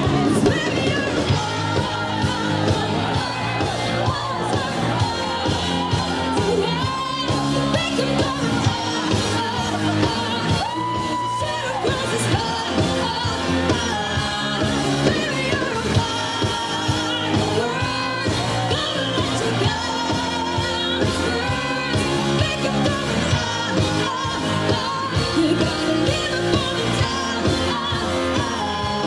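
Live pop band playing, with a female lead singer.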